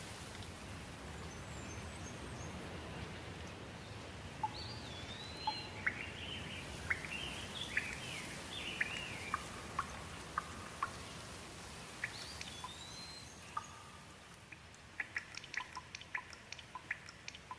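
Steady hiss of falling rain with small birds calling over it: slurred, rising-and-falling whistles and quick chirps from about four seconds in. Near the end the hiss fades and a quick run of short sharp ticks takes over.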